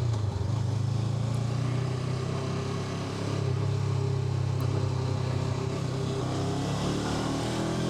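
Honda NX500's parallel-twin engine running steadily under way, easing off slightly about three seconds in and then picking back up.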